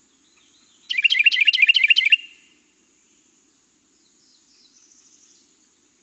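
Carolina wren singing its 'tea-kettle, tea-kettle' song: one loud burst of quickly repeated ringing phrases about a second in, lasting just over a second and much faster than 'tea-kettle' spoken, with a faint softer sound a few seconds later.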